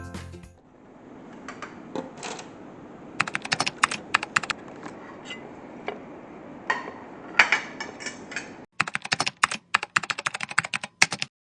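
Rapid light clicks and taps in short quick runs over a low steady hiss, ending abruptly near the end.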